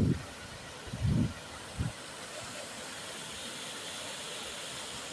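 Steady rush of floodwater flowing after heavy rain, the first surge of water to arrive. In the first two seconds three short low buffeting thumps sound over it.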